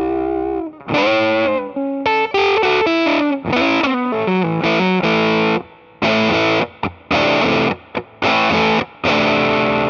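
Electric guitar played through an Earthquaker Devices Sound Shank germanium fuzz pedal, with a thick distorted tone. A held chord, then a run of single notes, then short chord stabs that cut off sharply, about one a second, in the second half.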